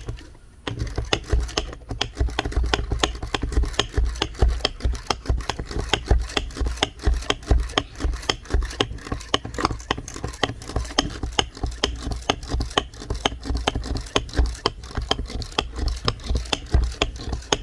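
Plantain batter of mashed plantain, egg, baking powder and butter being mixed briskly in a bowl, a rapid, steady clatter of utensil strokes, several a second, starting about a second in.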